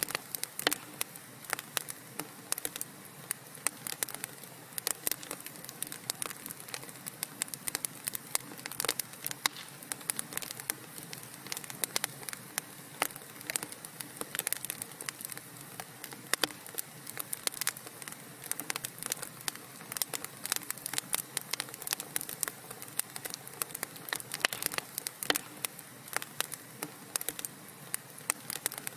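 Wood fire crackling in a fireplace: many irregular sharp pops and snaps over a soft steady hiss of burning.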